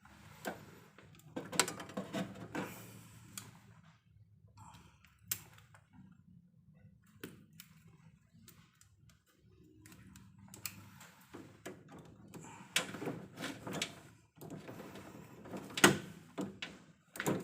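Irregular clicks, knocks and light rattles of hand work on cables and fittings in an electrical distribution panel, coming in clusters with the sharpest knock near the end.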